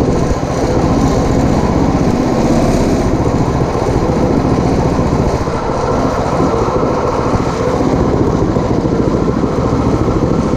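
Coleman CT200U-A mini bike's Tillotson 212cc single-cylinder engine running hard with steady rapid firing as the bike is ridden on a top speed run, easing slightly about three to five seconds in.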